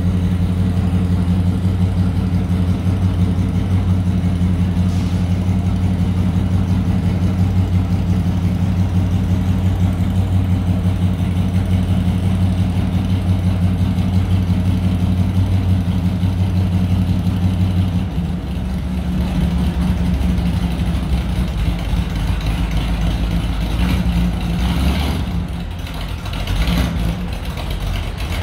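Cold Dodge Demon engine idling slowly with a steady low note; about two-thirds of the way through, the idle drops lower and turns rougher. The slow idle is due to the engine being cold in below-freezing air.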